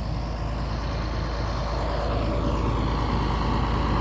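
Tractor engine running steadily with a low, even hum that grows slightly louder.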